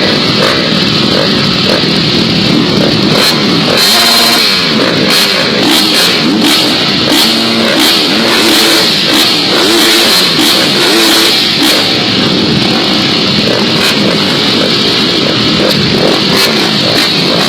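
Several motocross dirt bike engines revving and shifting together, their pitch rising and falling as they race.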